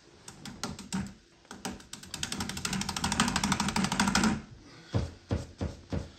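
A paintbrush rattled quickly against the inside of a rinse jar, about ten clicks a second for a couple of seconds, then a few separate knocks.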